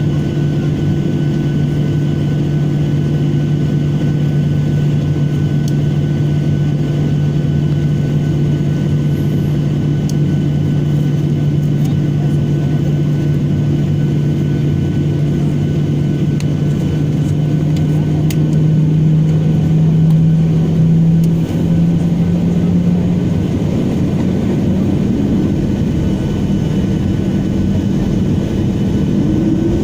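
Airliner engines heard from inside the cabin before takeoff, a steady low drone that shifts in pitch about two-thirds of the way through and begins to rise near the end as the engines spool up.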